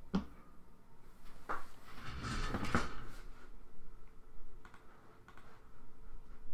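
Handling noise on a desk: a few knocks, a brief rustling shuffle about two seconds in, then scattered single clicks.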